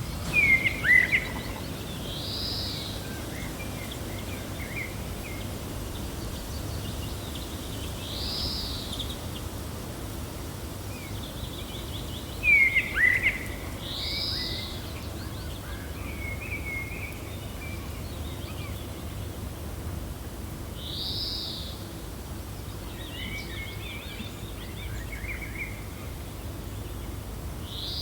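Wild birds calling over a steady low wind. One bird repeats a short, high, arched call about every six seconds. Twice, about a second in and just under halfway through, a louder burst of quick falling chirps cuts in.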